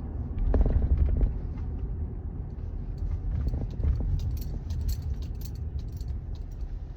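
Car driving over a bumpy road, heard from inside the cabin: a steady low rumble with jolts, the biggest about half a second to a second in, and scattered light rattling clicks.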